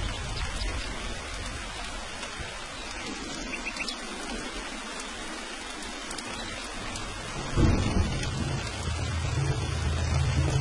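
Steady rain falling, with a low thunder rumble that fades away, then a sudden clap of thunder about three-quarters of the way in that rolls on as a low rumble.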